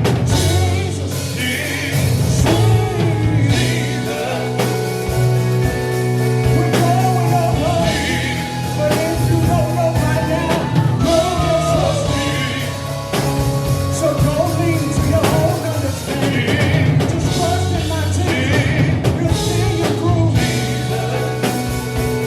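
Live gospel quartet music: a band with bass and drums plays under wavering sung vocal lines.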